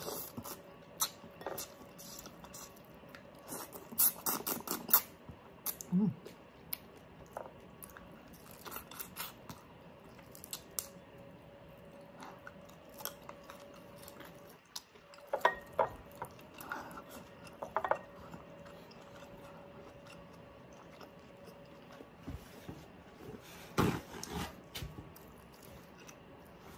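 Close-miked eating sounds of a person biting into and chewing a whole shrimp from sinigang, with scattered wet clicks, smacks and small crunches that come in clusters, the loudest about four, sixteen and twenty-four seconds in.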